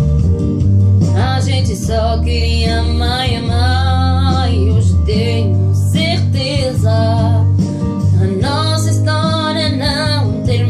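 A woman singing a slow pop ballad over acoustic guitar, with phrases coming and going over a steady low accompaniment.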